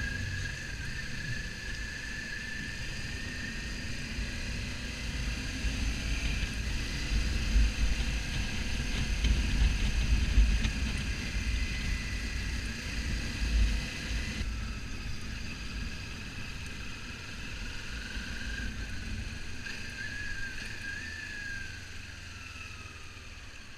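Kawasaki Ninja 400's parallel-twin engine running at road speed under heavy wind rumble on the microphone. A thin engine whine rises and then falls near the end, and the wind rumble is strongest in the middle.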